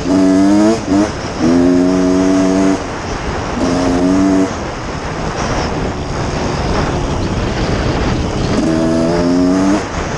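1989 Honda CR250 two-stroke dirt-bike engine revving hard in bursts. Its pitch climbs steeply in the first second, then it holds high revs in several throttle bursts, with a rough rushing noise between them. It pulls to high revs without cutting out.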